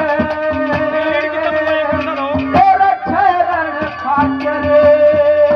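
Live Haryanvi ragni music: a wavering melody line held over steady hand-drum strokes.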